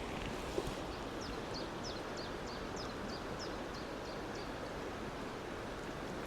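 Steady rush of a small stream's flowing water, with a small bird singing a quick run of about ten high chirps from about a second in until about four and a half seconds in.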